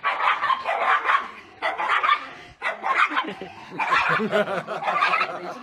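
A dog barking and yipping repeatedly, in quick runs of calls.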